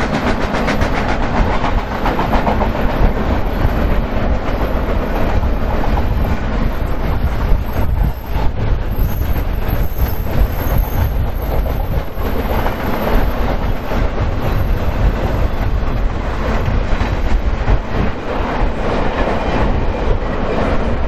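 BNSF double-stack intermodal well cars rolling past: a steady rumble of steel wheels on rail, with a continual rapid clicking of wheels over the track.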